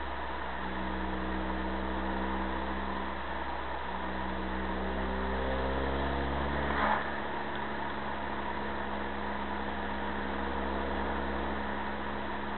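Car engine heard from inside the cabin on the move: the engine note climbs steadily under acceleration for a few seconds, then about seven seconds in a short clunk comes as the revs drop with a gear change. The engine then runs on steadily over a constant low road drone.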